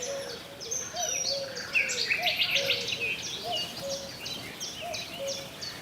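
A chorus of wild birds singing: many overlapping high chirps and trills, with a short low call repeating steadily, a little more often than once a second.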